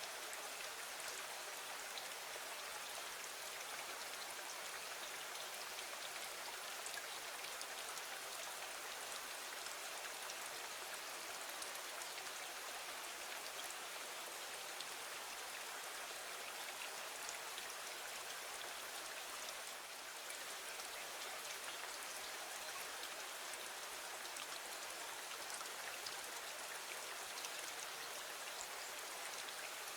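Steady rain falling, a constant even hiss flecked with small drop ticks.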